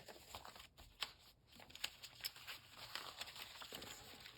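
Faint rustling and crinkling of paper scraps being handled and sorted through, with a few soft brief clicks.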